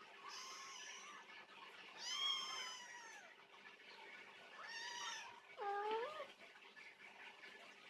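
A cat meowing four times, high-pitched, the loudest call about two seconds in and the last one lower, rising at its end.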